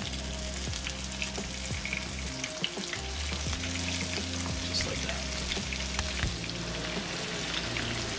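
Battered catfish fillets frying in hot canola oil in a skillet, just laid in: a steady sizzle with scattered crackles and pops.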